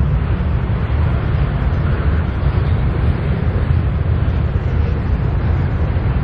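Double-stack intermodal freight cars rolling past at steady speed: a continuous, even noise of steel wheels on the rails, heaviest in the low end.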